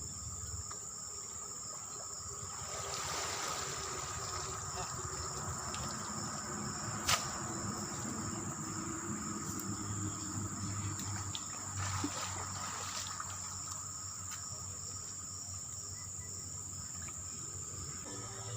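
Steady high-pitched drone of insects, crickets or similar, in a swamp, with faint water trickling and splashing under it. There is one sharp click about seven seconds in.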